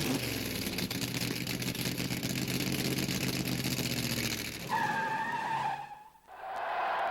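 A motor vehicle engine running steadily with a rushing noise over it. About two-thirds of the way through it gives way to a steady high tone lasting about a second, and the sound drops out briefly after that.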